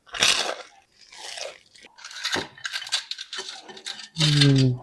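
Crispy fried chicken crunching, with a run of short crisp crunches and bites and a few light clinks.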